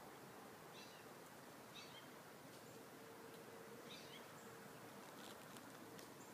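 Faint woodland ambience with a bird repeating short, high chirps every second or two.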